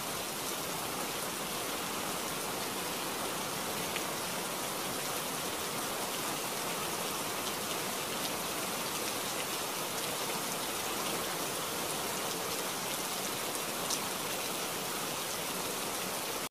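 Heavy rain falling steadily, an even hiss with a faint drop tick now and then.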